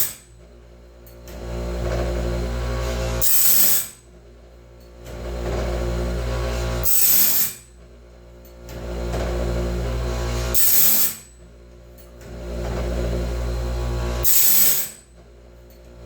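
DIY bandsaw-band sharpener grinding tooth after tooth in a steady cycle, about one tooth every four seconds. Each cycle a motor hum builds, then a short harsh grind as the wheel meets the tooth, which is the loudest part, then a brief lull before the next tooth, four times over.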